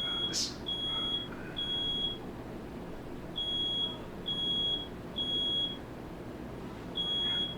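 Smoke alarm sounding its high-pitched beep in repeating groups of three with a short pause between groups, triggered by smoke from a firework set off in the room. A brief sharp noise cuts in about half a second in.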